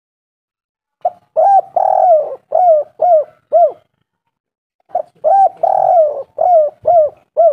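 Spotted dove cooing: two song phrases, each a run of five or six short arched coos. The first phrase starts about a second in, the second about five seconds in.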